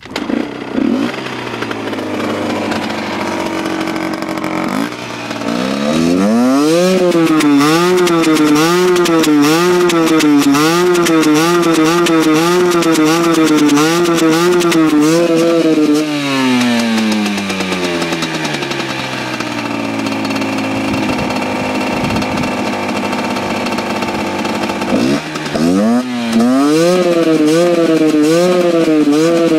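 Husqvarna WRE/SM 125 two-stroke single-cylinder engine running steadily, then revved twice. Each time the revs climb only to a plateau and hunt up and down about once a second instead of going higher, then drop back to idle. This is the stuttering and refusal to run at high revs that the owner cannot yet explain, with the exhaust power valve one suspect.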